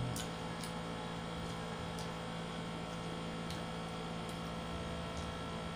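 Steady low electrical hum over an even background hiss, with a few faint scattered clicks.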